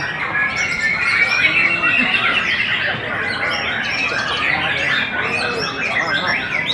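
Many contest songbirds singing at once, a dense, steady chorus of overlapping chirps, whistles and trills.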